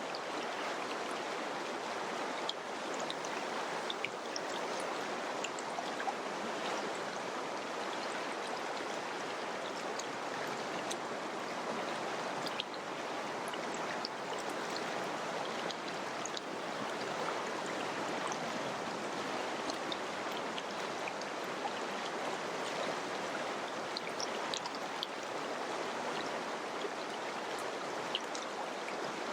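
Mountain river rushing over rocks, a steady, even flow with small splashes and gurgles scattered through it.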